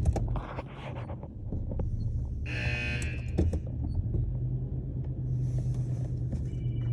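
Steady low rumble and hum inside a car sitting in an automatic car wash, with a brief buzzing tone about two and a half seconds in and a faint hiss later on.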